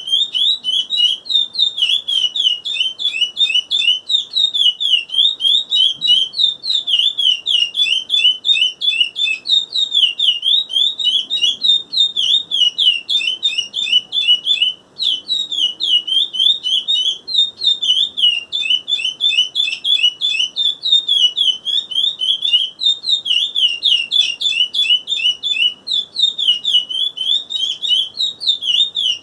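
A seven-month-old chestnut-bellied seed finch (curió) singing a long, unbroken run of rapid chirping notes, pausing only briefly about halfway through and again near the end.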